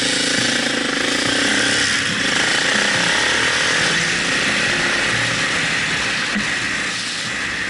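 Small 125 cc motorcycle engine running hard with a buzzing, rattly note, easing off slightly near the end.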